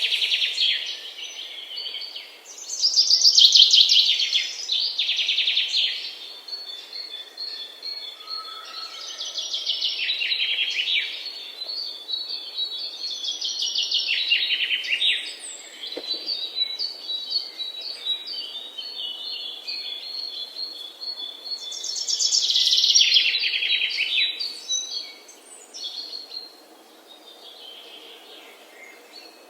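Songbirds singing: bursts of fast, high chirping trills every few seconds, with a run of short, evenly repeated high notes between them.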